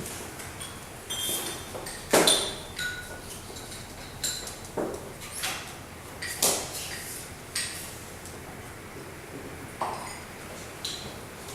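Cups and tableware clinking and knocking: about a dozen separate sharp knocks, some with a brief ringing tone, the loudest about two seconds in.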